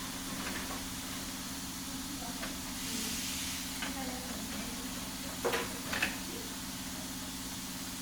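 Steady electric hum of workshop machinery, with a short hiss about three seconds in and two sharp knocks a half-second apart a little past the middle.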